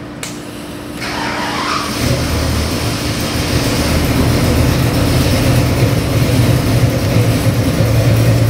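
Ford 347 cubic-inch stroker small-block V8 (302-based) on an engine dyno being started: it cranks briefly, catches about two seconds in, and then runs steadily at idle.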